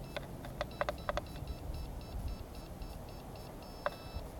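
Radio-control transmitter trim beeping: a few sharp button clicks, then a steady run of short high beeps, about four a second, as a trim button is held to step the trim, ending in one longer beep near the end. The trim is being adjusted to stop the helicopter spinning.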